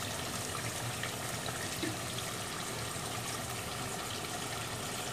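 Bot (tripe) curry frying in a metal pot on a gas stove: a steady sizzling hiss.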